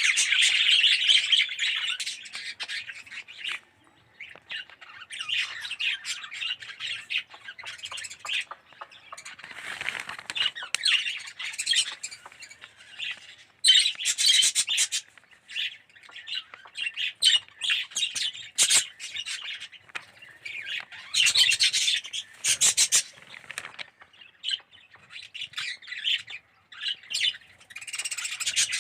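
A flock of budgerigars chattering, with rapid chirps and squawks coming in uneven bursts and brief lulls.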